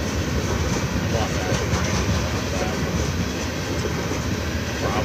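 Loaded coal hopper cars of a freight train rolling past on steel wheels: a steady, loud rumble and rattle of wheels on rail.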